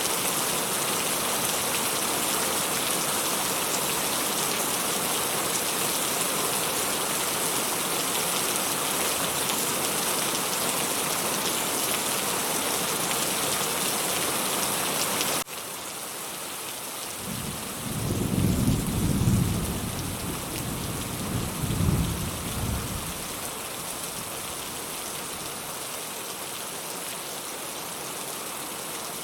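Steady heavy rain that suddenly drops to a softer patter about halfway through, then distant thunder rolls as a low rumble lasting several seconds, swelling twice before fading back under the rain.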